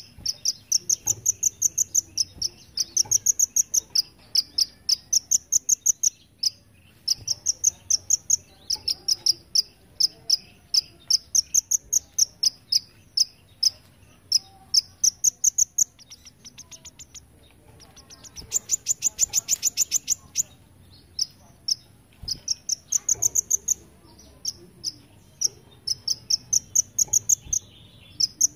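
Kolibri ninja sunbird singing long runs of rapid, high, thin chirps in repeated rising phrases: the insect-like 'belalang emas' (golden grasshopper) imitation. The song breaks off briefly a little past halfway, then resumes with a denser burst.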